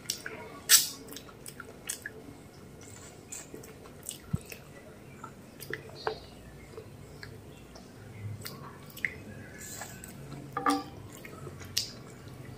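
Close-miked wet chewing and mouth sounds of someone eating mutton biryani by hand, with scattered sharp clicks, the loudest about a second in.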